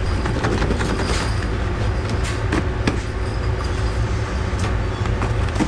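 Workshop machinery running with a steady low hum, with a few sharp knocks and clicks through it.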